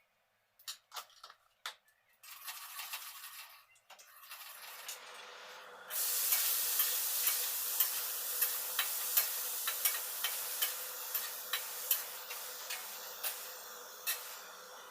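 Vegetables frying in hot oil in a pan for bhaji, sizzling steadily with frequent small pops. A few sharp clicks come first. The sizzle grows louder about six seconds in.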